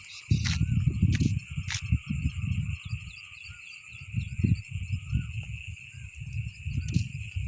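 Steady chorus of insects and frogs, a continuous high shrill with small chirps over it, with an uneven low rumble underneath and a few sharp clicks.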